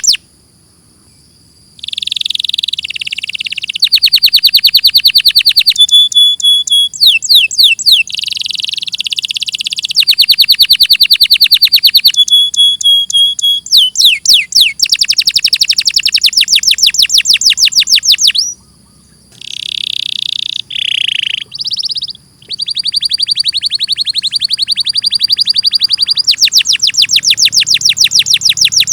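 Domestic canary singing: long rolling trills of fast repeated notes, one phrase after another, with a few quick sweeping whistles. The song breaks off briefly at the start and again about two-thirds through.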